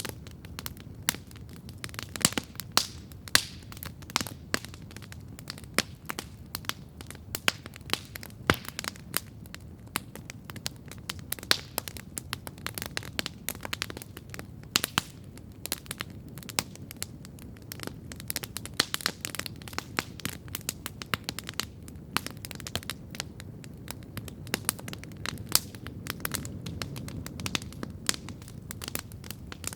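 Campfire crackling steadily, with frequent sharp pops at irregular intervals over a low, steady rumble.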